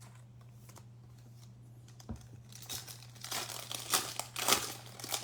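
Basketball trading-card pack wrapper being torn open and crinkled by hand: one knock about two seconds in, then a run of crinkling that peaks near the end. A steady low electrical hum runs underneath.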